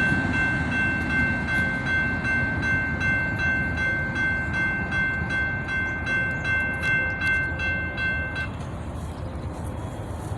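Freight train rolling past, its cars rumbling with a regular clatter of wheels. A steady high ringing tone runs over it and stops abruptly about eight and a half seconds in, after which the rumble fades lower.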